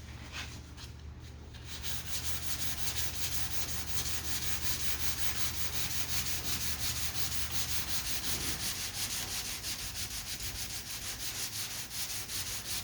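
Hand block-sanding of lacquer primer over a bondo dent repair: sandpaper on a sanding block rubbed in quick, even back-and-forth strokes, starting about two seconds in. A steady low hum runs underneath and stops about two-thirds of the way through.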